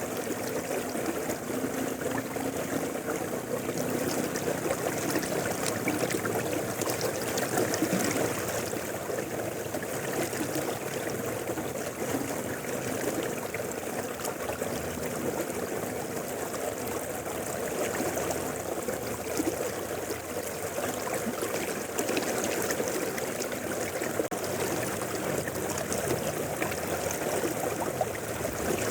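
A river flowing steadily, with a dense rush of water over stones and a bubbling, gurgling texture that holds an even level throughout.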